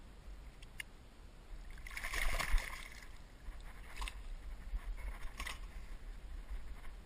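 Water splashing as a largemouth bass is let go at the boat's side and kicks away, loudest about two seconds in, with a couple of smaller splashes after.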